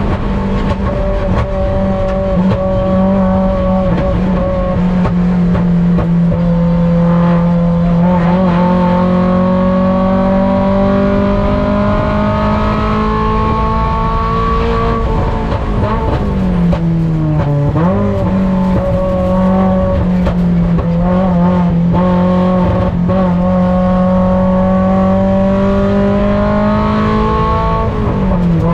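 On-board sound of a Mazda Miata race car's four-cylinder engine running hard at high revs, its note climbing slowly through long pulls. The pitch falls sharply about halfway through and again near the end as the revs drop, then climbs again.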